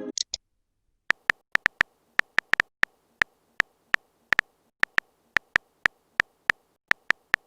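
Phone-keyboard typing sound effect: a run of short, sharp clicks at irregular spacing, about two to three a second.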